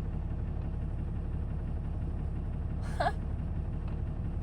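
Truck engine running at a steady low rumble, heard from inside the cab. About three seconds in, one brief, rising, high-pitched sound cuts through.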